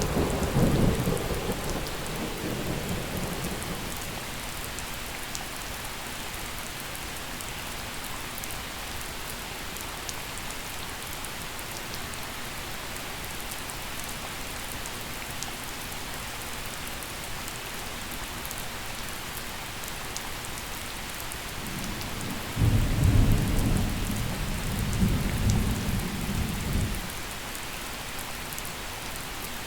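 Steady gentle rain during a thunderstorm. A thunder rumble dies away over the first few seconds, and another, louder rumble rolls in about twenty-two seconds in and lasts several seconds.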